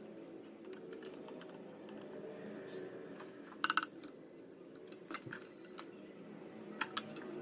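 Light clicks and a couple of short metallic clinks from hand tools during soldering work on an amplifier circuit board, over a steady low hum.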